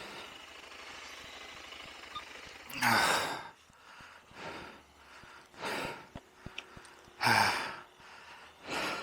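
A man breathing out heavily and sighing about five times, each breath about half a second long, the loudest ones about three and seven and a half seconds in. A few light clicks come in between.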